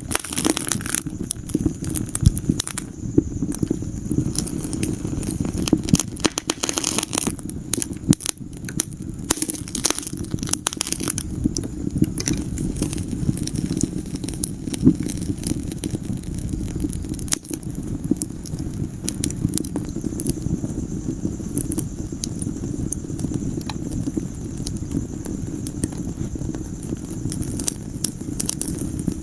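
Wood fire burning in a fireplace, a low steady rumble of flames under irregular sharp crackles and pops from the burning logs.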